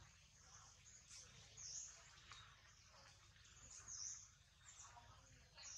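Faint, high-pitched bird-like chirps, a few short calls scattered through, over a quiet low background hum.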